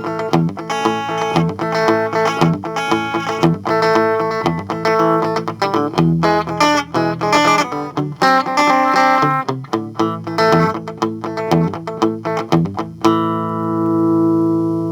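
Electric guitar played clean through a small tube amp, a Fender Champion 600 rebuilt to the 5F1 tweed circuit with a tube rectifier and a Weber 6-inch speaker: a run of picked notes and chords, ending about thirteen seconds in on a chord left ringing.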